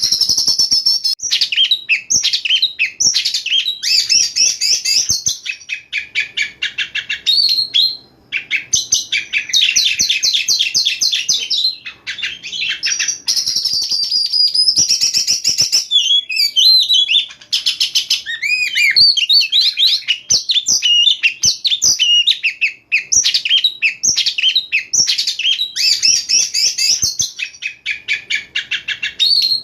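Oriental magpie-robin (kacer) singing a loud, nearly continuous song of rapid repeated-note trills and whistled glides, with a few short breaks between phrases.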